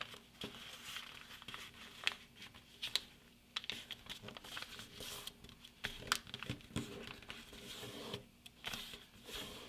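Sheet of A4 printer paper being folded and creased by hand: irregular rustling and crinkling with sharp taps and clicks as the folded paper glider's wing fold is pressed down.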